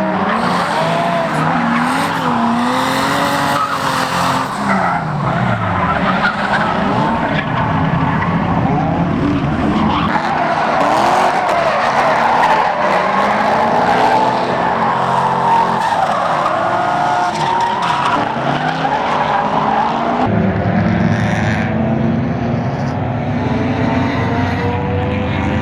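Drift cars sliding with their engines revving up and down and tyres squealing. About twenty seconds in this gives way to a steadier engine note of race cars running on track.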